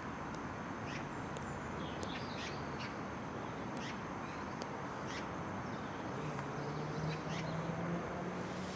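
Birds chirping and calling over a steady low outdoor rumble, with a low steady hum coming in about six seconds in.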